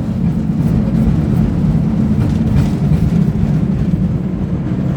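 San Francisco cable car running along its track: a steady low rumble with a few faint clicks.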